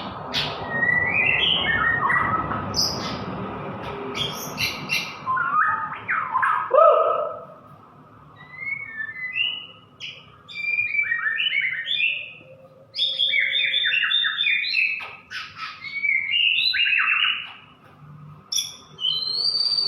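White-rumped shama (murai batu) singing a varied song of whistles and quick chirps, delivered in phrases with short pauses between them.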